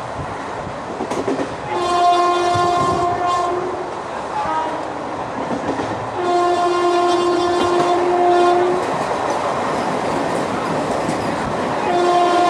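Indian Railways train horn sounding in long blasts: one of about two seconds, a longer one of about two and a half seconds, and a third beginning near the end. These sound over the steady rumble and clatter of the train running on the rails.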